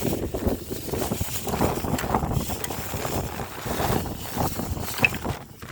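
Wind buffeting the microphone in a blizzard: an uneven, gusting rumble with scattered small knocks and rustles.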